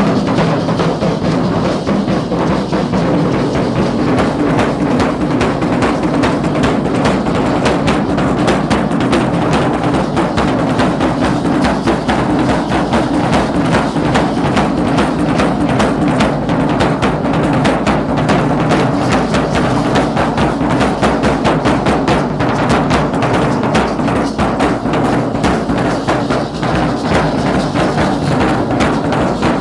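Drums of a Guadalupana danza troupe beating a continuous, dense rhythm, without a break.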